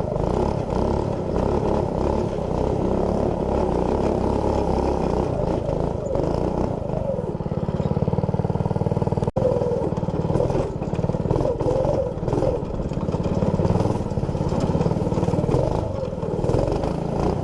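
Small 212cc single-cylinder engine fitted with an aftermarket exhaust, running continuously with its revs shifting up and down. The sound drops out sharply for an instant about nine seconds in.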